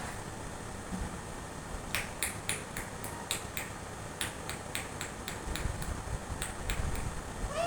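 About fifteen sharp clicks or snaps, roughly four a second in three short runs, over a low steady background rumble. A parrot's short call begins right at the end.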